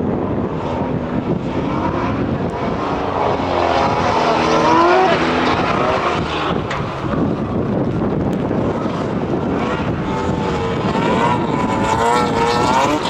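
BMW drift car's engine revving hard as the car slides on wet tarmac, its pitch repeatedly climbing and falling, with two spells of high revving: one a few seconds in and another near the end.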